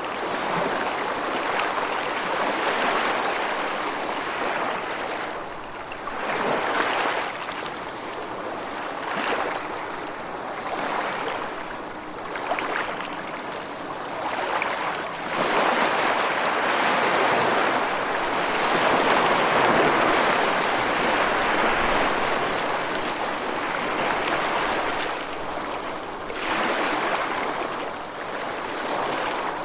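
Rushing water: a steady wash of noise that swells and eases every few seconds.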